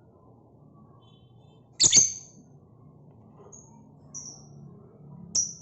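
Caged birds chirping: short, sharp, high-pitched chirps, the loudest about two seconds in, then three more spaced over the next few seconds.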